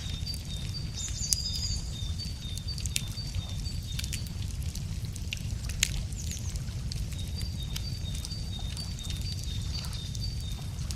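Wood fire crackling with scattered sharp pops, two louder ones, over a steady low rumble. A small bird sings a quick two-note phrase over and over in two bouts, the second starting about seven seconds in.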